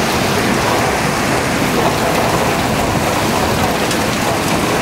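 Heavy thunderstorm downpour: a loud, steady rushing hiss of wind-driven rain.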